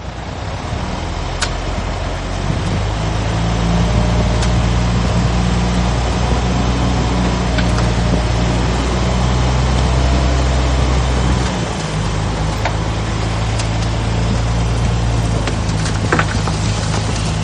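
Heavy diesel engine of earthmoving equipment running steadily, with a few sharp clicks and knocks over it; the engine note dips and changes briefly about two-thirds of the way through.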